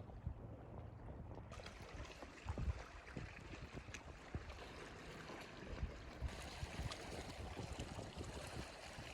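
Water splashing and lapping around a kayak, with wind rumbling on the microphone and small irregular knocks.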